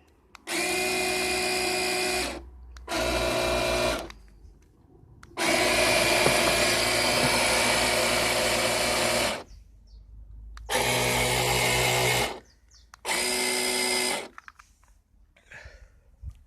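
Electric propeller motors of a JABO bait boat whirring in five short bursts, each switched on and off abruptly; the middle burst, about four seconds long, is the longest and loudest.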